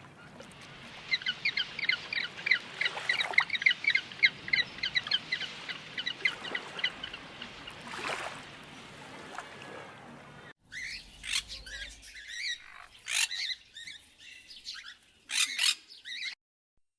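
Birds calling: a fast run of repeated squawking notes for several seconds. After an abrupt change, a second stretch of sharper, scattered calls follows.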